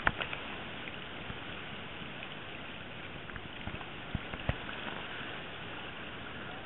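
Overflowing stream floodwater rushing past in a steady wash of noise, with a few sharp knocks just after the start and again about four seconds in.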